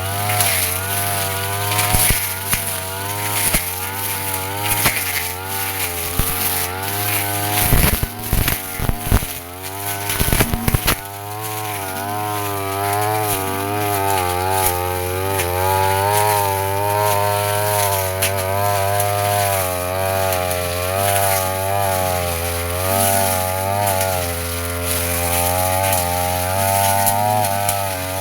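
Brush cutter engine running at high speed, its pitch wavering up and down as the spinning blade cuts grass. Between about seven and eleven seconds in comes a cluster of sharp knocks and crackles as the blade strikes stems.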